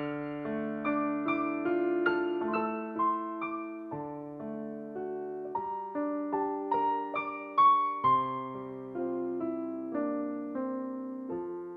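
Gentle solo piano music: a slow melody of single struck notes over held chords in the bass.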